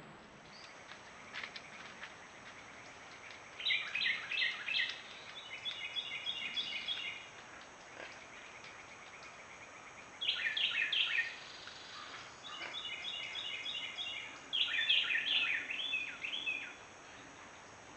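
Birds calling in short chattering bursts, with quick runs of repeated high notes, about a second or two long each and coming every few seconds, over a steady faint hiss.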